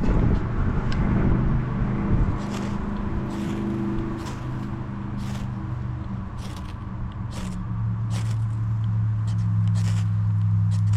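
Wind buffeting the microphone with a steady low rumble that grows stronger in the second half, while a campfire is being lit; short, sharp scratchy ticks come about once or twice a second.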